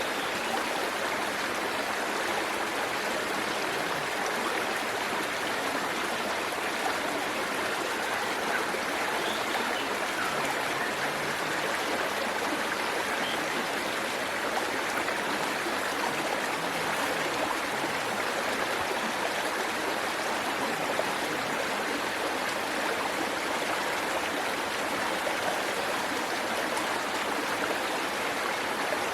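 Waterfall and the stream below it rushing steadily, an even, unbroken sound of falling and flowing water.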